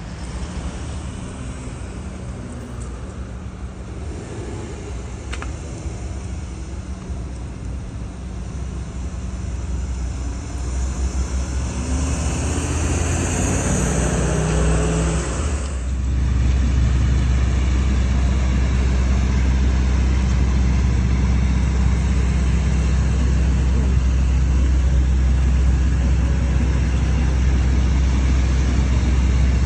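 Road vehicles: one passes by at about the middle, followed by a steady, louder low engine rumble.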